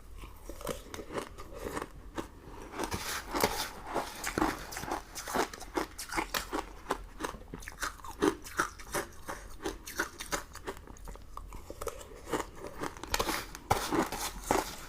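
Close-up crunching and chewing of sugar-crusted candy and jelly sweets, with many irregular crackly bites and chews throughout.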